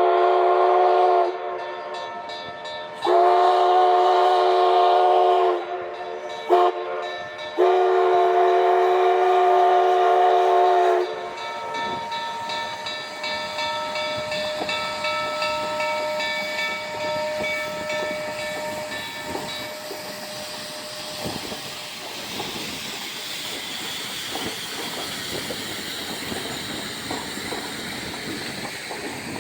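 Steam locomotive's chime whistle sounding the grade-crossing signal: long, long, short, long. The last blast ends about 11 seconds in. Then the train rolls past with a steady hiss of steam and running noise.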